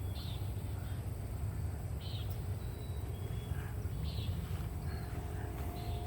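Outdoor ambience: a steady low rumble, like wind on the microphone, with faint short bird chirps about every two seconds.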